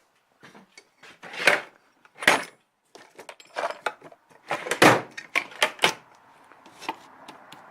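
Hand tools and small metal parts being handled while a spark plug's gap is checked: a string of sharp clicks, clinks and knocks, the loudest about two and five seconds in.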